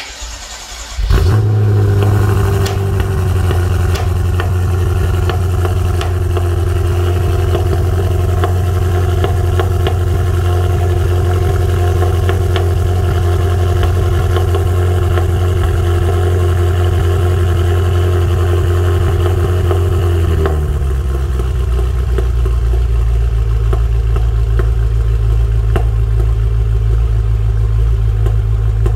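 BMW F10 M5's twin-turbo V8 starting: a brief crank, then it catches about a second in and runs at a steady raised idle. About twenty seconds in the idle drops to a lower, steady speed.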